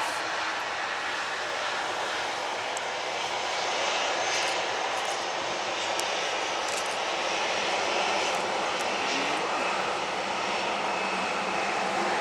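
Airliner engines heard as a steady, even rushing noise as a plane passes near the airport runway.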